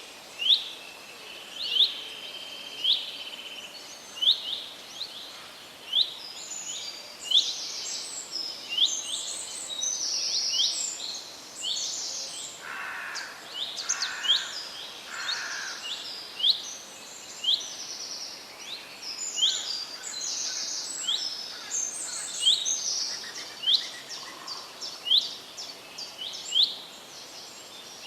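Birds singing in a forest: one bird repeats a short, sharp call about once a second, while others sing quicker, higher phrases over it from about six seconds in.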